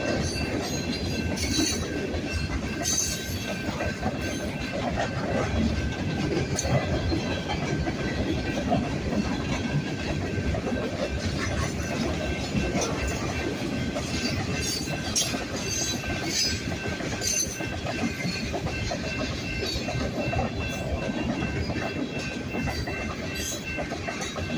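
Freight train rolling past, its wheels clicking irregularly over rail joints under a steady rumble, with a thin steady squeal from the wheels.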